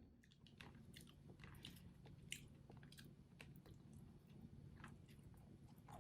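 Faint close-up chewing and crunching: scattered small, irregular clicks over a low hum.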